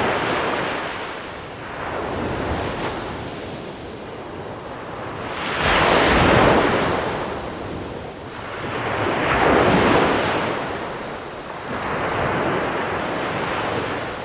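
Sea waves rolling onto a shore of small pebbles, each one a rush of surf that swells and fades. They come about every three seconds, and the loudest break about six and ten seconds in.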